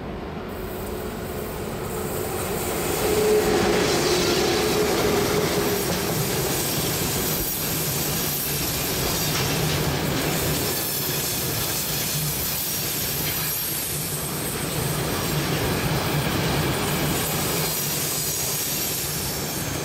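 Train running on the rails with its wheels squealing and the wheels clacking over rail joints. It gets louder about three seconds in, then runs on steadily.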